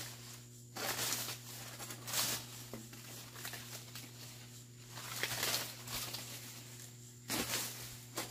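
A hoe scraping and chopping through weeds and soil while weeding, in irregular strokes a second or two apart.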